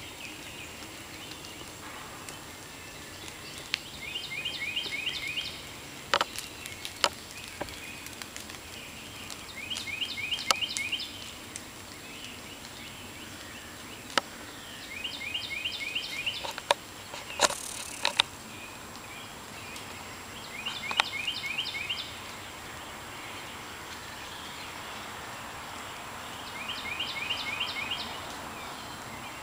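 A songbird repeats a short, rapid song of about seven quick high notes, lasting about a second and a half, every five to six seconds over steady woodland background noise. Scattered sharp ticks and a brief rustle come a little past the middle.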